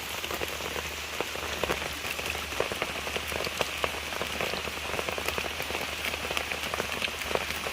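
Steady rain, with many separate drops tapping on a surface close by.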